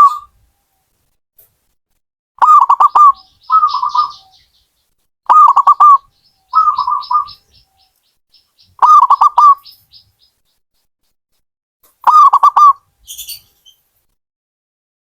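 A zebra dove (perkutut) cooing. Short phrases of quick rolling notes repeat about every three seconds, four times. The first two phrases are each followed by a softer, quicker trailing phrase.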